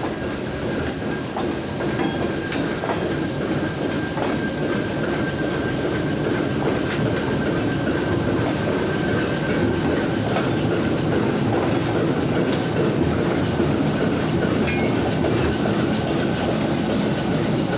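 Freight train of tank cars rolling slowly past close by, wheels clicking over the rail joints under a steady rumble, with a thin steady squeal from the wheels. Near the end the Alco diesel locomotive comes by and the sound grows a little louder.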